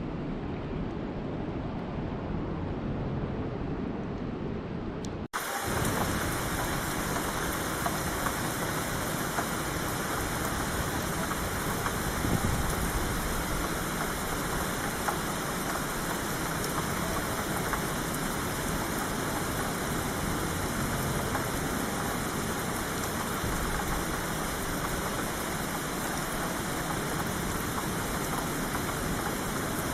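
A dull, low rumbling rain noise that cuts off abruptly about five seconds in and switches straight to heavy rain: a steady, dense hiss of downpour.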